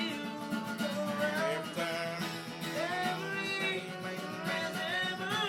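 Acoustic band music: acoustic guitar playing under sung notes that glide between pitches, without clear words.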